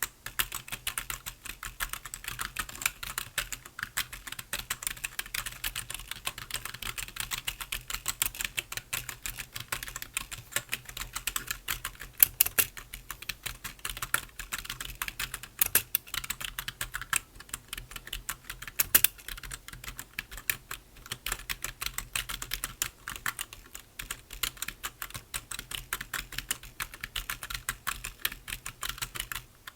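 Computer keyboard being typed on continuously: a fast, steady patter of key clicks, with a few louder keystrokes standing out now and then.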